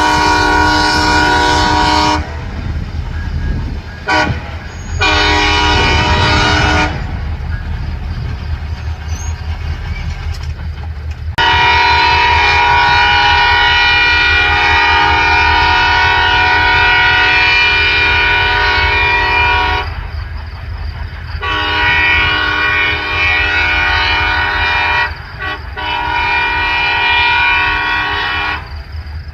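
Freight train passing at speed while its locomotive air horn sounds a run of long blasts and a short one, the usual grade-crossing pattern, over the steady rumble of the train. The longest blast comes in the middle and a short blast sounds near the end.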